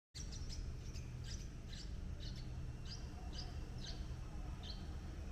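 A bird chirping: short high chirps repeated about twice a second over a steady low rumble.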